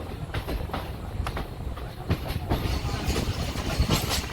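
Passenger train running along the track: a steady low rumble with the wheels clicking irregularly over rail joints.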